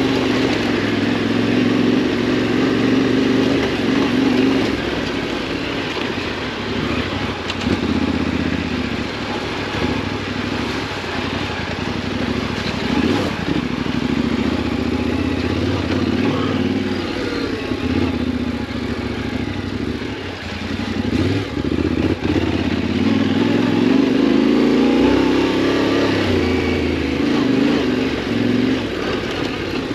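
Yamaha Ténéré 700's parallel-twin engine running under way, its pitch rising and falling again and again with the throttle.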